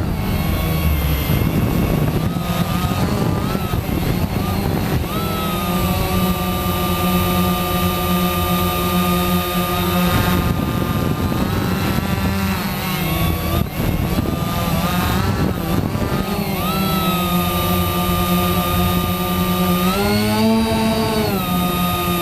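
Quanum Nova quadcopter's motors and propellers running in flight, a steady pitched buzz that shifts with throttle and rises sharply near the end, with wind rushing over the onboard camera at times.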